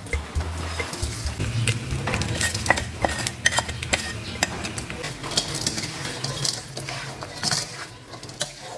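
Wooden spatula stirring and scraping in a metal wok of fried chicken feet and crispy fried garlic, with irregular clacks against the pan and a light sizzle; the stirring tails off near the end.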